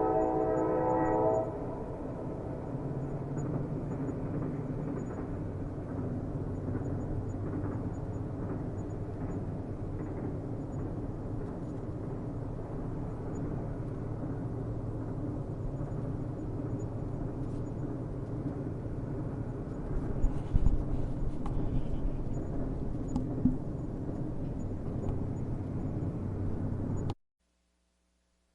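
A train horn blares and stops about a second in, leaving the steady low rumble of a train running on the rails, with a few short knocks around twenty seconds in. The sound cuts off abruptly to silence near the end.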